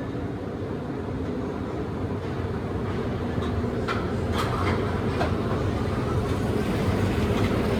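Car wash tunnel equipment running: a steady low mechanical rumble that slowly grows louder, with a few short clicks and squeaks around the middle.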